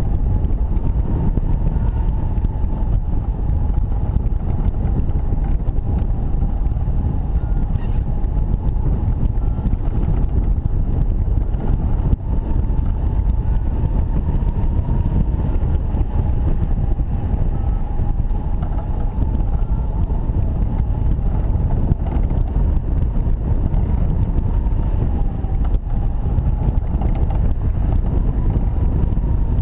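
Wind from the hang glider's flight buffeting the microphone: a loud, steady, low rush. A faint thin tone wavers slowly in pitch above it.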